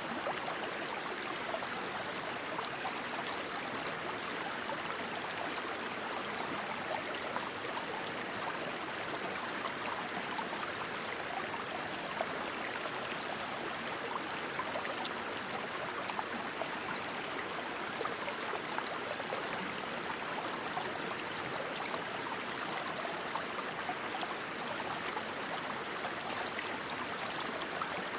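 Rushing water flowing steadily, like a stream. Short high chirps repeat over it about once a second, with a brief rapid trill about six seconds in and another near the end.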